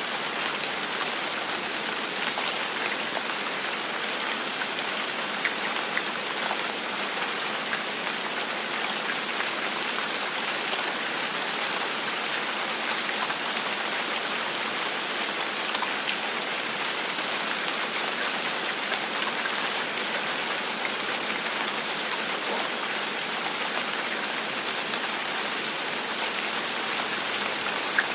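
Steady gentle rain falling, an even hiss with many small drop ticks and no change in intensity.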